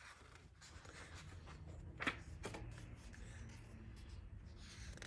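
Faint rustling and handling of paper as a picture book is opened and its pages are moved, with one light tap about two seconds in.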